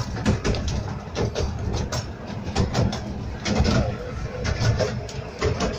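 Miniature steam railway train running along the track, its wheels and carriages giving irregular clicks and rattles over a steady low rumble.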